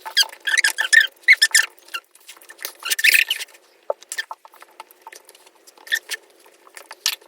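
Close-up eating sounds: wet chewing and lip smacking as chicken biryani is eaten, in quick clusters of crackly smacks, busiest in the first few seconds.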